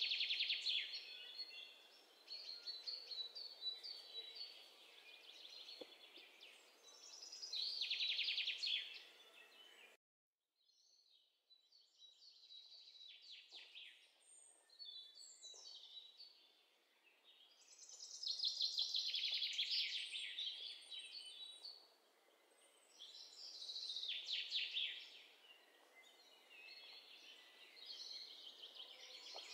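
Birds singing: bursts of rapid trilled chirps come every few seconds. The sound cuts out briefly about ten seconds in.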